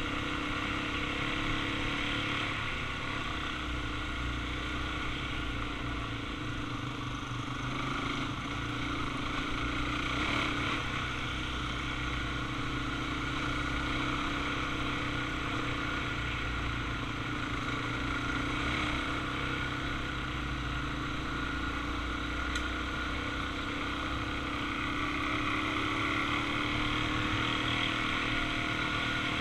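Suzuki DR-Z400's single-cylinder four-stroke engine running steadily under way.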